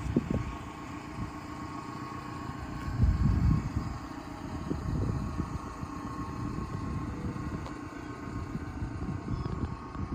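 A Subaru Sambar kei truck's small engine idling steadily, with irregular low rumbles that swell and fade; the loudest comes about three seconds in.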